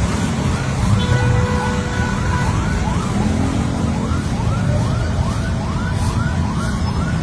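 Emergency vehicle siren sounding in quick rising sweeps, about two a second, over a low rumble.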